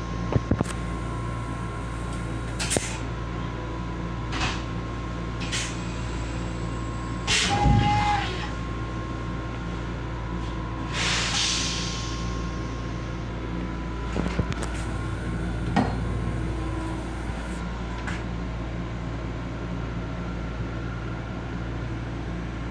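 Steady hum with a constant tone in the small restroom of a Long Island Rail Road M7 electric railcar, broken by scattered clicks, knocks and short hisses. The loudest event is a clatter with a brief tone about eight seconds in.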